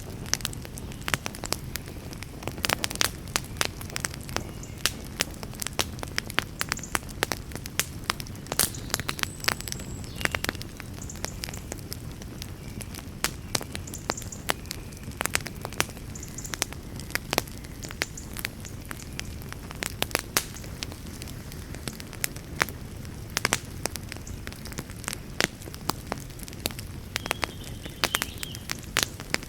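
Wood fire burning with a steady low rumble of flames and frequent sharp, irregular crackles and pops.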